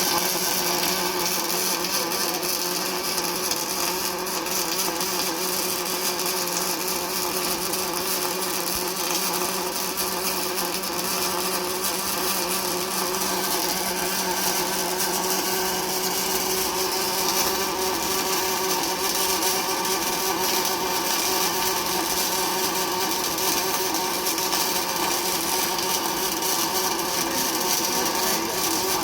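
Automatic twin-torch welding machine welding a cast iron pulley: a steady, unbroken welding hiss over a constant machine hum.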